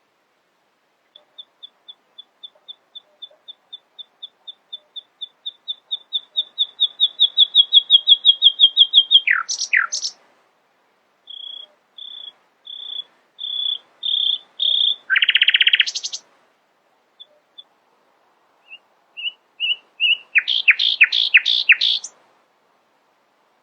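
A nightingale singing. A long run of repeated piping notes slowly swells to full loudness, then breaks into sharp downward sweeps. Short whistled notes and a buzzy trill follow, and after a pause it ends in a burst of quick sweeping notes.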